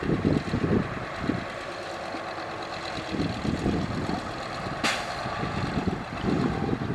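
Diesel engines of heavy earthmoving machinery (dump trucks and bulldozers) running with an uneven low rumble, and one short hiss about five seconds in.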